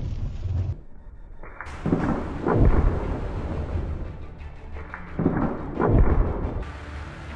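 Two deep rumbling booms, about three seconds apart, over background music.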